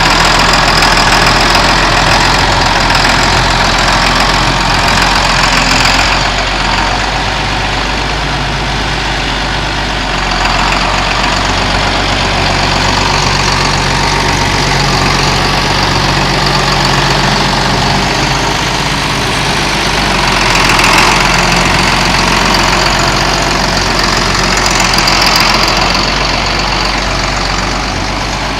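John Deere 8430 4WD tractor's turbocharged six-cylinder diesel engine running steadily. It drops a little in level about six seconds in and swells briefly around twenty seconds in.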